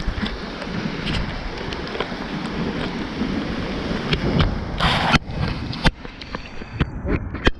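Storm wind and rain buffeting the microphone, a rough rushing noise with a low rumble and scattered sharp ticks. A short, loud rush hits about five seconds in, and afterwards it is somewhat quieter.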